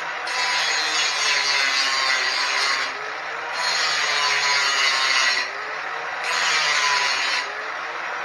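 Power tool, likely an angle grinder, cutting steel tabs off a motorcycle frame: a continuous harsh cutting noise over a steady motor whine. The whine dips slightly in pitch as the disc is pressed into the metal, and the cut eases off briefly three times.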